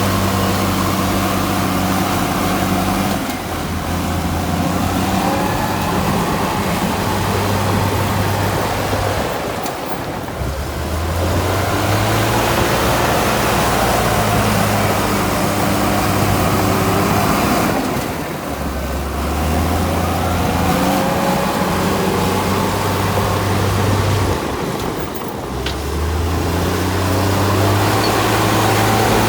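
Komatsu D53P bulldozer's diesel engine working under load. Its pitch steps up and down in repeated cycles, easing off briefly about every seven seconds.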